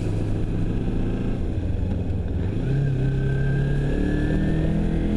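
Motorcycle engine running while riding, low and steady for the first couple of seconds, then rising in pitch as the bike accelerates, with a faint whine climbing with it.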